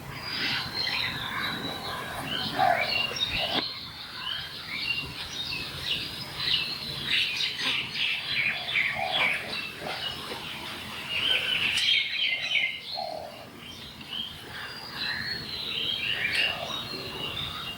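Several birds chirping and twittering in a dense chorus of short, high calls, with a few lower notes mixed in.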